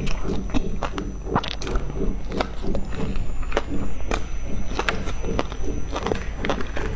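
Close-miked chewing and lip smacking on a floss-and-seaweed-coated bun, with frequent sharp mouth clicks at an irregular pace.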